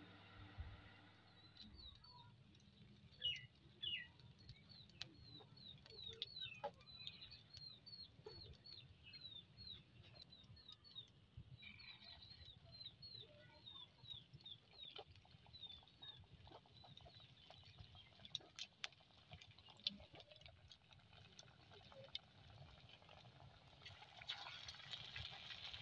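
Faint, repeated bird chirps, with scattered small clicks and knocks. About a second or two before the end, hot oil starts sizzling as egg-noodle pakora batter is dropped into the karahi.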